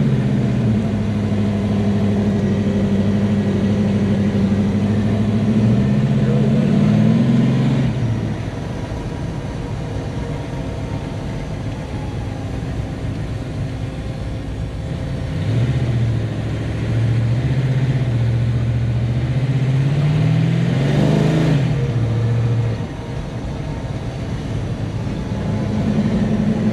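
Big-block V8 of a 1967 Chevelle drag car running under way, heard from inside the car. The engine pitch climbs about seven seconds in and again around twenty seconds in, dropping after each rise.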